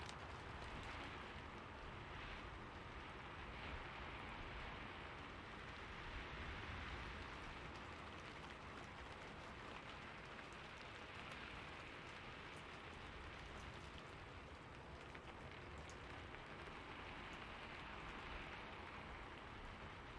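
Steady, quiet rainfall with scattered drop ticks.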